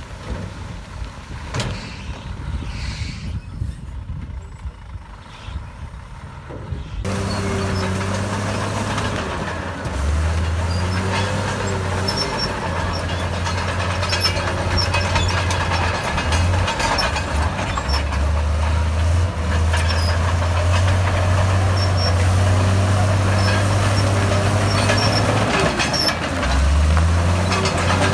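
Heavy diesel earthmoving machine engine running loud, its low note dipping and recovering twice as the load comes on, with light metallic clanks over it. Before the engine comes in abruptly after several seconds, there is only quieter wind-like outdoor noise.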